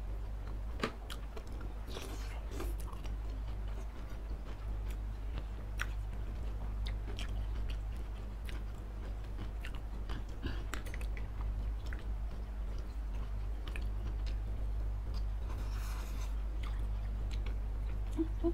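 Close-miked chewing and biting of saucy noodles and chicken satay, with scattered small wet clicks and smacks. A steady low hum runs underneath.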